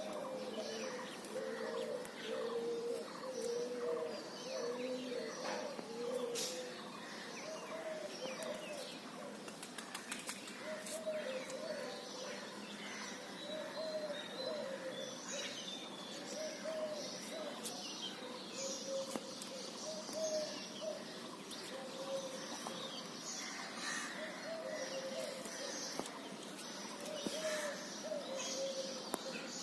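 Several birds chirping and calling, with a low warbling call repeated over and over beneath many short, higher chirps.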